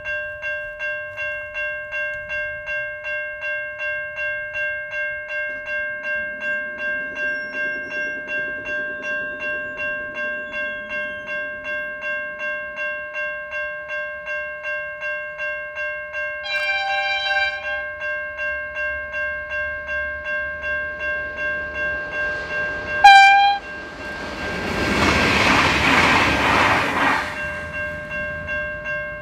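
A level crossing bell ringing about twice a second throughout. A short train horn blast just past halfway, then a louder one about three-quarters through, followed by a few seconds of a train rushing past.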